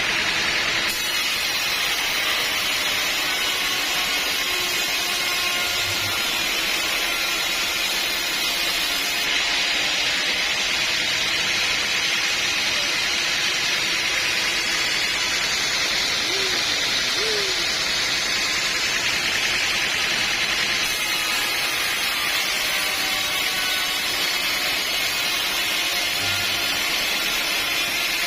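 Sawmill saw running with a steady, unbroken noise at an even level.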